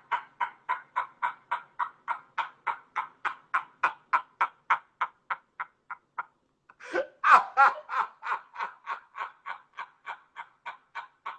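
A man laughing hard and without stopping, in quick even bursts of about four a second, with a short break for breath about six seconds in and then a louder burst of laughter.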